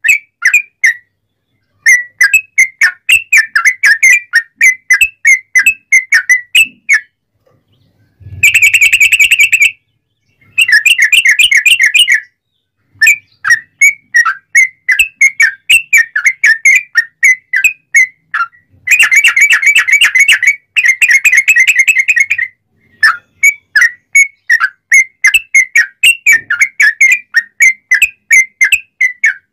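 A yellow-vented bulbul (trucukan) singing loudly in fast runs of short whistled notes, broken by brief pauses. Twice the song quickens into denser rolling trills, the rapid 'ropelan' style.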